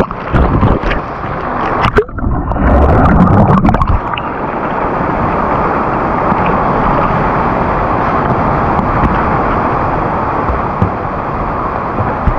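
Loud, steady rushing of water, with knocks and bumps in the first few seconds before it settles into an even roar.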